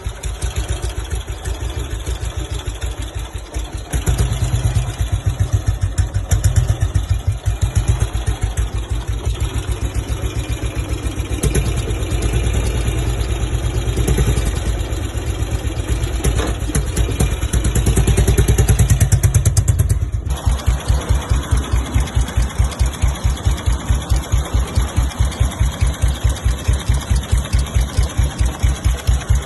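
BSA WM20's single-cylinder side-valve engine running. The throttle is opened a little several times. About twenty seconds in it drops back to a slow, even idle, each firing stroke heard separately.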